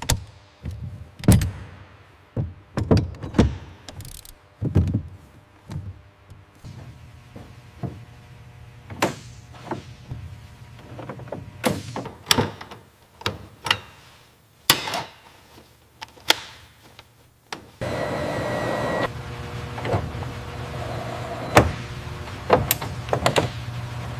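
Metal clunks, clicks and knocks at irregular intervals as cockpit seat rails and a seat are fitted and secured. About 18 seconds in, a steady low hum and hiss starts, with a few more sharp clicks over it.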